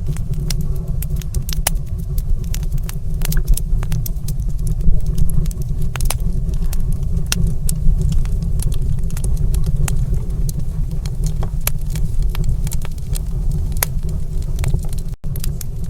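Fire in a stone fireplace crackling, with frequent sharp irregular pops and snaps over a steady low rumble. The sound briefly cuts out near the end.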